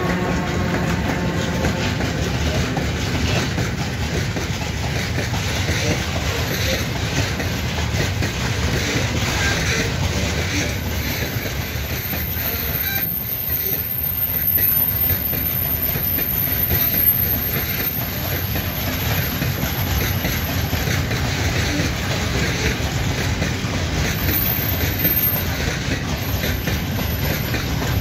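A freight train of covered hopper wagons rolling past, the wheels clacking steadily over the rail joints. A thin high whine comes in about halfway and again near the end.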